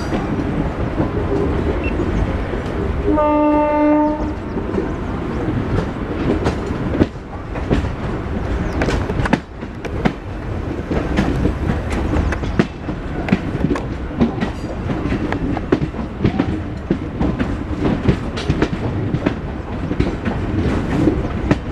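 Three-phase MEMU electric train running along the track: a steady rumble with the clatter and clicks of wheels over rail joints. A train horn sounds once, for under a second, about three seconds in.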